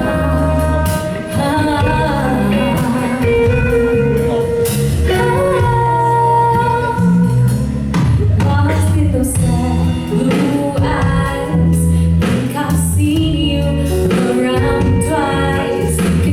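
A woman singing live over guitar accompaniment, performing an original song.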